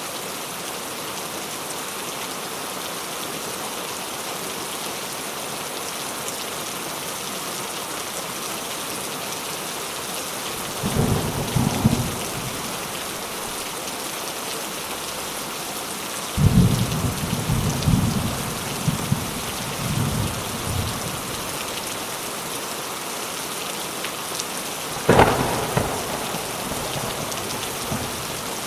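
Steady rain falling in a thunderstorm, with thunder rumbling twice, briefly just past ten seconds in and then longer from about sixteen to twenty-one seconds, and a sharper, louder thunderclap about twenty-five seconds in.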